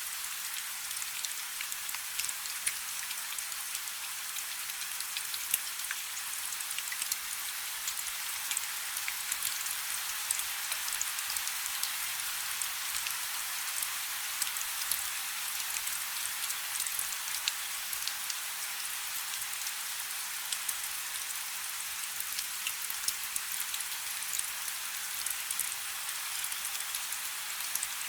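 Steady light rain: an even hiss scattered with many small, sharp drop ticks, with little low rumble.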